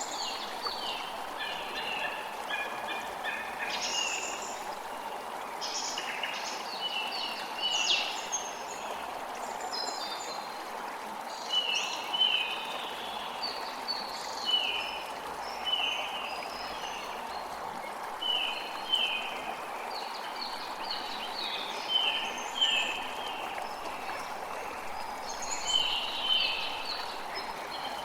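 Creek water running steadily, with songbirds calling over it. From about twelve seconds in, one bird repeats short falling notes over and over, often in pairs.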